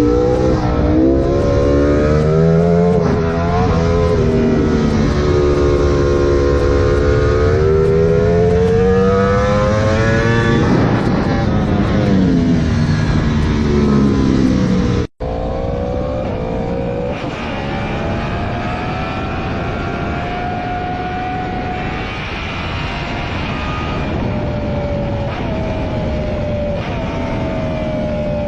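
A tuned engine revving, its pitch swinging down and back up, then cutting about halfway through to a second engine running at steadier revs with small rises and falls.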